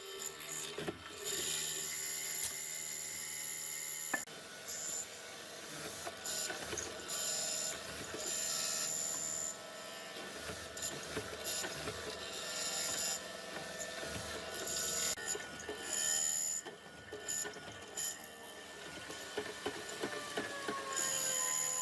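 Workshop power tools running in short stretches, with a high whine that comes and goes several times.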